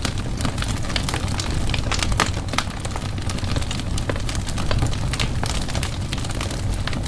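Wood fire burning in a fireplace: a low steady rumble of the flames with frequent sharp, irregular crackles and pops of the burning wood.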